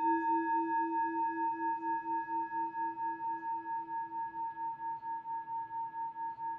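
A struck singing bowl ringing out in one long, slowly fading tone that wobbles with a steady beat of about four pulses a second.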